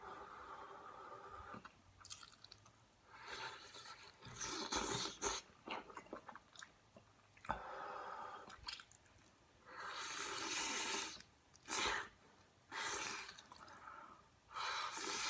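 A person chewing and eating kimchi jjigae close to the microphone: wet mouth sounds with several louder noisy bursts of about a second each, spaced irregularly.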